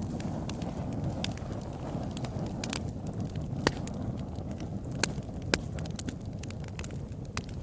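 Wood fire burning in a fireplace: a steady low rumble of flames with scattered sharp crackles and pops, the loudest pops about a third of the way in and twice more just past the middle.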